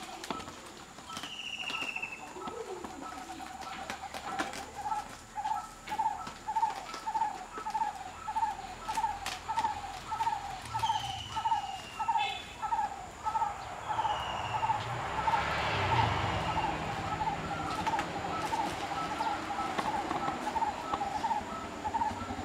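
Birds calling in the background: a steady run of short, hooting notes about twice a second, with a few high chirps that fall in pitch now and then. Scattered faint clicks, and a swell of rushing noise about two thirds of the way through.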